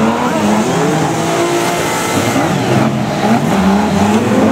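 Several banger racing cars' engines revving at once, their pitches rising and falling over one another as the cars push and spin in a pile-up.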